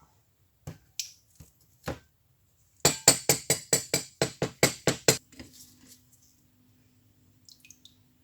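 Metal being struck with a hammer: a few scattered sharp knocks, then a quick even run of about ten bright, ringing strikes, roughly four or five a second, that stops about five seconds in.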